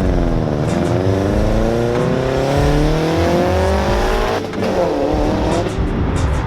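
Built Subaru WRX with a big turbo and external wastegate accelerating hard past, its turbocharged flat-four engine climbing steadily in pitch for about four seconds. The engine note breaks off briefly at a gear change, then pulls again and fades.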